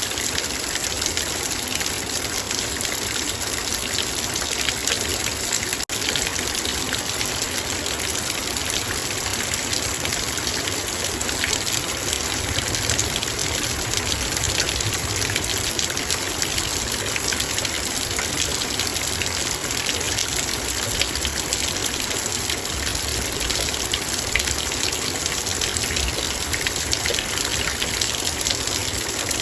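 Heavy rain falling on a metal bowl: a dense, steady patter of drops striking the metal over a constant rain hiss. A split-second dropout about six seconds in.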